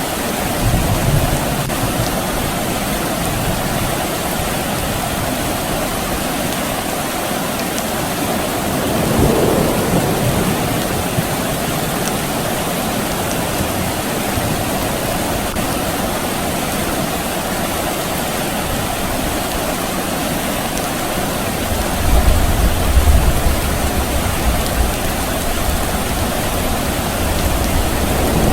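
Steady rain falling. Distant thunder rumbles low for a few seconds about three quarters of the way through.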